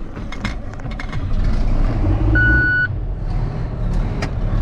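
Old farm tractor engine running just after starting, getting louder about a second in. A short high steady beep sounds once about halfway through.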